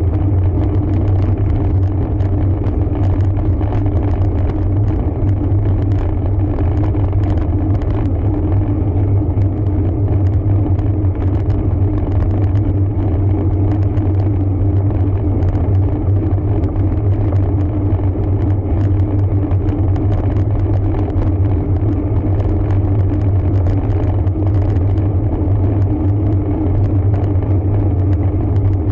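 Steady low rumble of a road bike in motion, picked up by a camera riding along on the bike, with faint irregular ticking over it.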